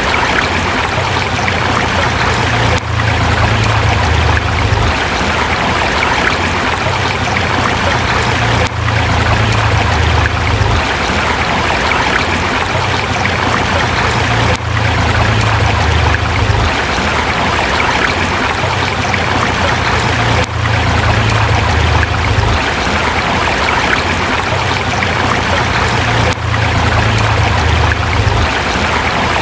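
Forest river flowing over rocks: a steady rushing of water, with a low rumble underneath that comes and goes and brief dips in loudness every few seconds.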